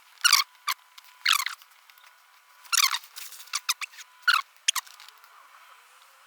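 Hand crimping tool squeezing a connector onto a lamp wire: a string of short, sharp squeaky rasps and clicks, about nine in all.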